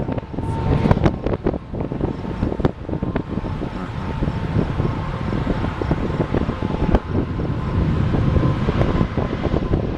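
Strong storm wind buffeting the microphone: a loud, steady rush broken by many short crackles and knocks.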